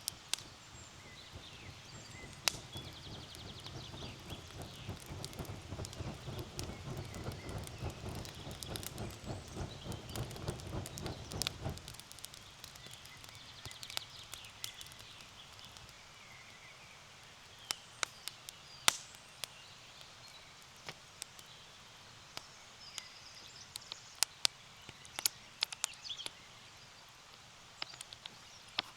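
Campfire wood crackling, with sharp irregular pops. For the first twelve seconds a denser rustling crackle runs under the pops, then stops abruptly. Birds chirp faintly in the background.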